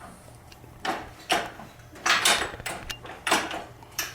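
A rebuilt Model T Ford engine being turned over with its hand crank without firing. It gives a run of irregular metallic clanks and scrapes, roughly one a second.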